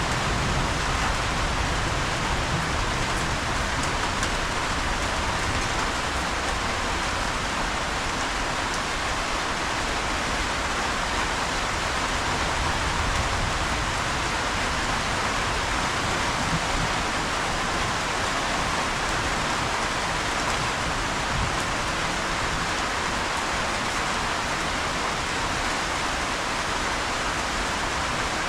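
Steady rain, an even hiss with no breaks or pauses.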